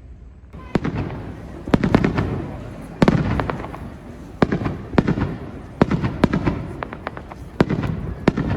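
Aerial fireworks bursting in rapid succession: a dozen or more sharp bangs, some in quick clusters, each followed by a low rumbling tail. The bangs start about half a second in, after a quieter low rumble.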